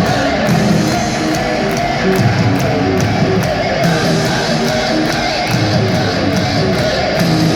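Live heavy metal band playing loud: electric guitar over a steady drum beat and bass, with no vocals.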